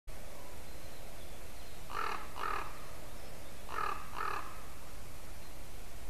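A bird calling off camera: four short, harsh calls in two pairs, the second pair about two seconds after the first.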